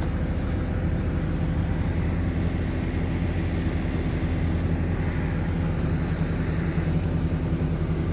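Heavy diesel engine running steadily at a constant speed, a low even hum with no revving.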